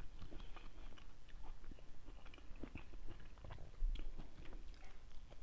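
A person chewing and biting soft, juicy mango, with scattered small wet smacks and clicks of the mouth.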